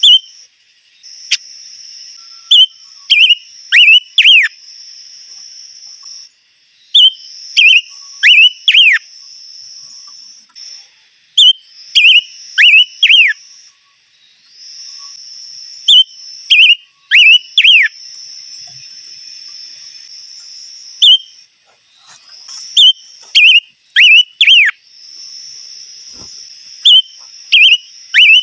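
A songbird, the one the Vietnamese call 'chim ngũ sắc', singing loud phrases of three to five sharp downslurred whistles, repeated every three to five seconds. Under it runs a steady high insect drone that breaks off and resumes several times.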